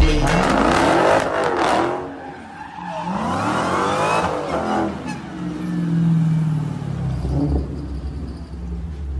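Dodge Challenger engine revving hard, its pitch sweeping up and down several times, with tyres squealing during a smoky burnout. The engine settles to a steadier note in the last few seconds.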